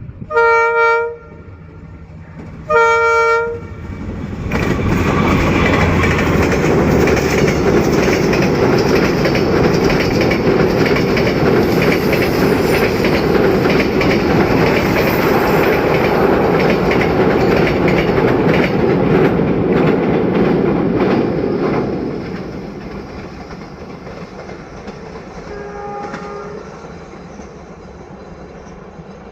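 D19E diesel locomotive sounding two short horn blasts, then passing close with its passenger train, wheels clacking over the rail joints. The noise fades away after about twenty seconds, and a faint short horn sounds near the end.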